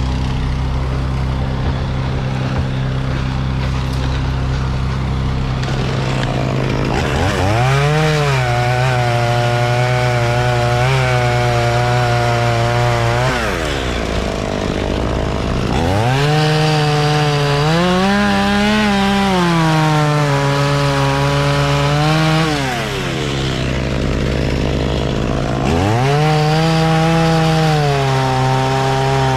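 A chainsaw revs to full throttle and cuts three times, each burst lasting several seconds before the engine drops back toward idle. A steady engine hum runs underneath.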